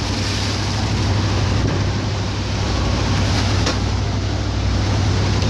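Tour boat's engine running steadily: a constant low drone under an even hiss of water and wind.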